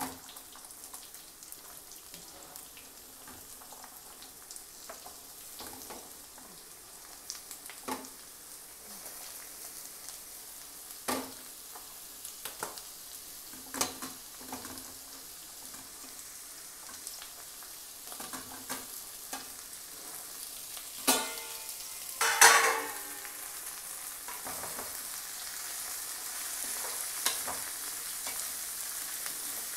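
Cubed bottle gourd frying in oil in a kadai with a steady soft sizzle that grows louder near the end. Scattered knocks of a wooden spatula stirring against the pan are heard throughout, with two louder clanks about two-thirds of the way through, the second ringing briefly.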